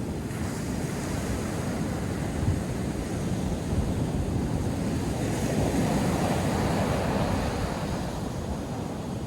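North Sea surf breaking and washing on a sandy beach, a steady rush that swells gently in the middle, with wind buffeting the microphone.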